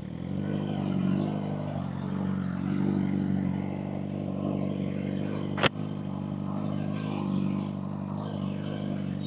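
Suzuki GSX-R 600's inline-four engine running at a steady idle, the level swelling slightly a few times. A single sharp click sounds a little past halfway.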